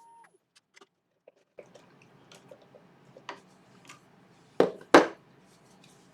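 A wood lathe's steady motor whine cuts off as it is switched off, followed by small clicks and rustles of handling and two loud sharp knocks close together about four and a half seconds in.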